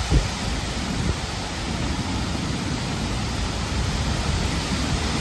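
Strong squall-line wind blowing in a steady rush of noise and buffeting the microphone, with a brief low thump right at the start.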